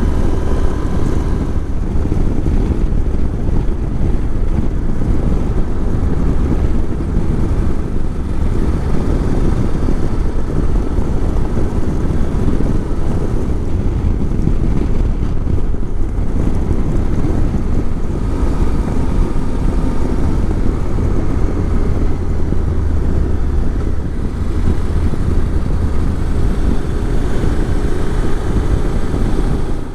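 Motorcycle riding steadily at road speed: wind rush over the microphone, with the engine and tyre noise running underneath.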